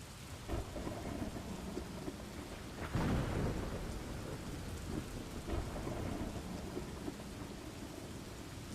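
Steady rain with thunder rumbling. A louder roll of thunder breaks about three seconds in and fades over a second or two.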